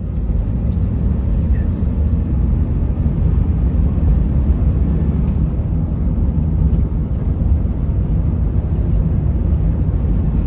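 A steady, low rumbling noise with no distinct tones or impacts.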